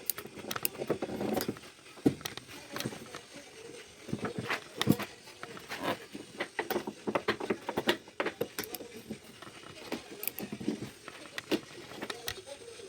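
Irregular clicks, clinks and knocks of hand tools and metal parts being handled during suspension work.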